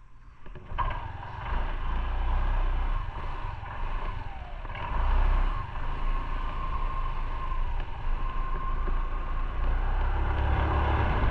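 Motorcycle engine starting up about a second in, then running with a low rumble that grows louder around five seconds in as the bike pulls away.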